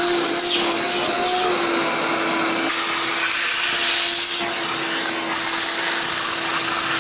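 Ridgid 16-gallon NXT wet/dry shop vacuum running steadily: a constant motor whine over a loud rush of air. The airflow sound changes slightly twice.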